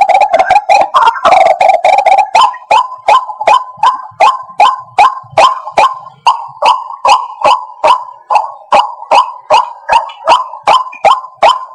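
White-breasted waterhen calling: a loud, fast run of repeated croaking notes, dense and overlapping for about the first two seconds, then settling into an even series of about three to four sharp notes a second. The recording is a lure call for bird trapping.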